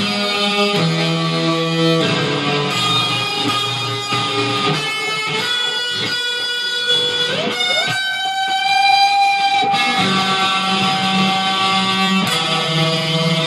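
Electric guitar playing a melodic passage note by note, with one note bent upward about halfway through and held for nearly two seconds.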